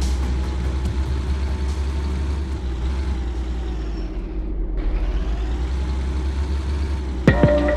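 Truck engine running with a steady low drone. Music comes in near the end.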